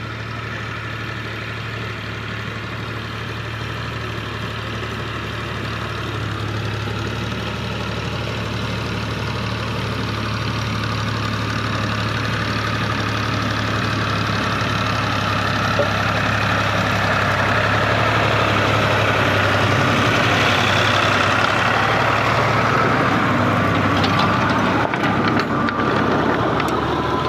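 Al-Ghazi tractor's diesel engine running steadily, growing louder over about the first twenty seconds and then holding.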